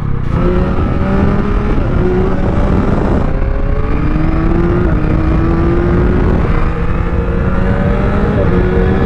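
Yamaha MT-09's inline three-cylinder engine accelerating, its pitch climbing and then dropping back several times as it shifts up through the gears.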